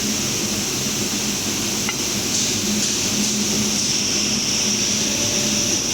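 CNC glass cutting machine running: a steady high hiss over a low, even hum, with a few faint clicks.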